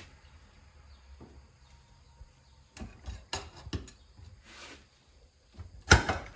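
Scattered knocks and clicks of metal parts and tools being handled, with one loud sharp knock about six seconds in.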